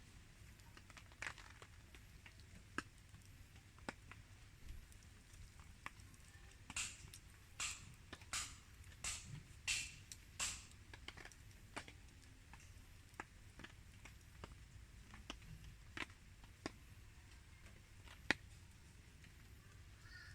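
Wood campfire crackling, with irregular sharp pops and a run of louder snaps about seven to ten seconds in.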